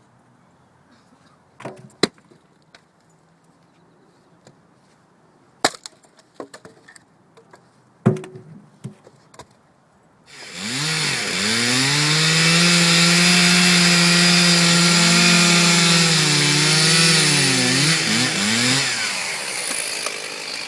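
A few sharp wooden knocks, then about halfway through a chainsaw comes in loud and rises to full speed. It runs steadily for about eight seconds, its pitch dipping and wavering near the end as it works through wood.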